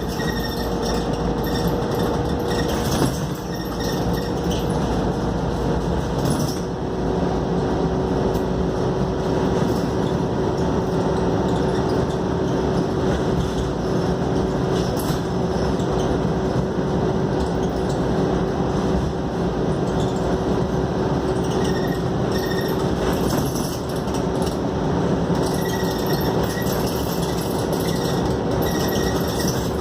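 Cabin noise of a Scania K280UD double-decker bus under way: steady engine and road noise with a faint whine that steps down to a lower pitch about six seconds in.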